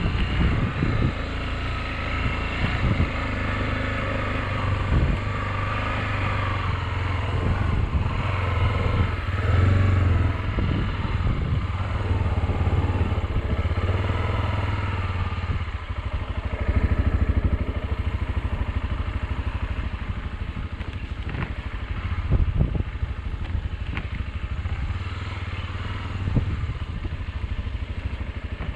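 Motorcycle engine running steadily on a ride, its note swelling briefly a few times.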